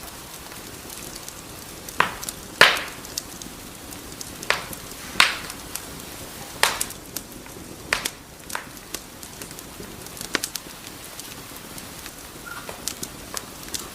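Wood fire crackling: sharp pops and snaps at irregular intervals over a steady hiss of burning, the loudest pop about two and a half seconds in.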